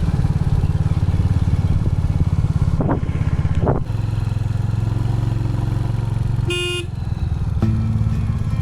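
Royal Enfield Hunter 350's single-cylinder engine running under way with a steady thumping pulse, its note changing about four seconds in. A short vehicle horn blast sounds about two and a half seconds later.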